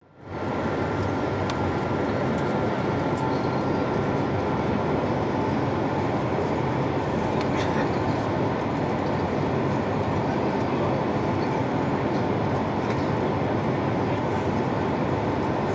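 Steady roar inside the cabin of an Airbus A220-300 airliner: engine and airflow noise from its Pratt & Whitney PW1500G geared turbofans, fading in quickly after a brief cut to silence at the start.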